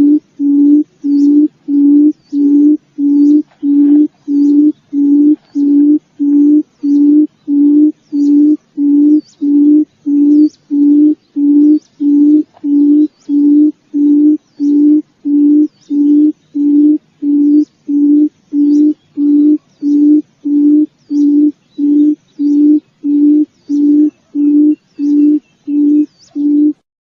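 Forest quail (puyuh hutan) giving a long, evenly spaced series of low hooting notes, just under two a second, each with a faint high tick.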